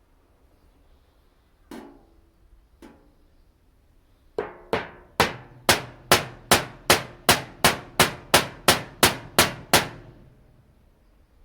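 Hammer striking a flathead screwdriver against a metal rice-cracker tin to punch holes in it: two light taps, then a steady run of about fifteen ringing blows, roughly two and a half a second.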